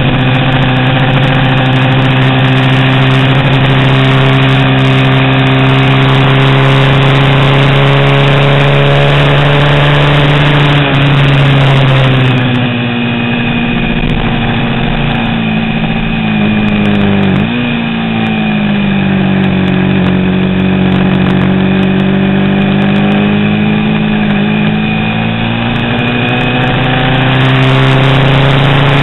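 Vintage 350 cc racing motorcycle engine held at high revs. About twelve seconds in the throttle closes and the revs fall, with a quick sharp blip about five seconds later, as on a downshift. The revs then build steadily back up to a high steady note near the end.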